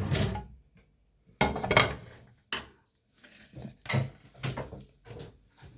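Kitchen clatter: a string of separate knocks, scrapes and clicks of dishes, pans and utensils being handled, the loudest a little over a second in.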